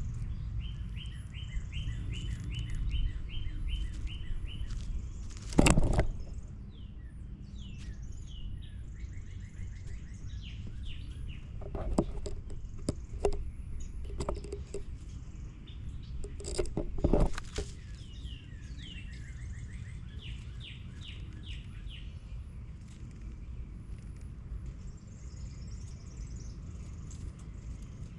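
Songbirds singing: rapid series of short, repeated chirps, one near the start and more later on, over a steady low rumble. A loud bump or rustle comes about six seconds in, with a few smaller knocks about halfway through.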